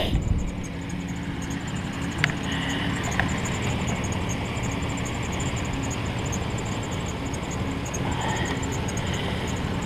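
A vehicle engine idling steadily, with two short sharp clicks a couple of seconds in.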